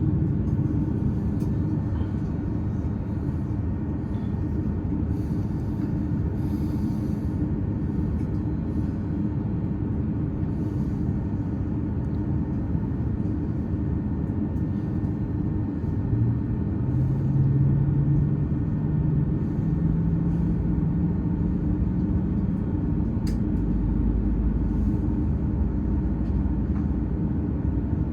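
Steady low rumble of an Airbus A330-300 airliner, heard from inside the passenger cabin. A little past the middle a low hum comes in and rises in pitch in a few steps over about five seconds.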